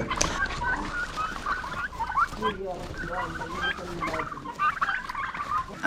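A flock of domestic turkeys calling, many short, high calls overlapping one another.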